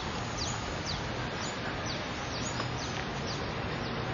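Birds chirping: repeated short, high chirps that sweep downward in pitch, about one or two a second, over a steady background hiss.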